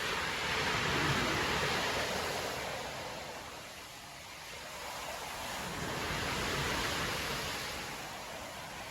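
Storm surf breaking on a beach: a wave crashes and its wash rises and falls, then a second wave swells about halfway through.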